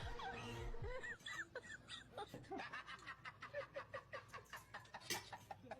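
Rapid high-pitched giggling: a quick run of short laughs that goes on for several seconds.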